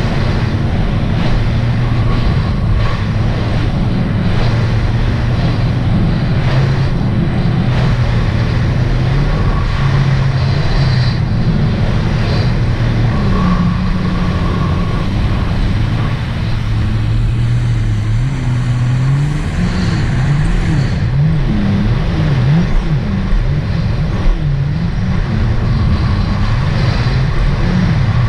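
2018 Sea-Doo RXT-X 300 jet ski's supercharged three-cylinder engine running under way, its note holding steady and stepping up and down. About two-thirds of the way through the pitch wavers quickly up and down several times before settling again.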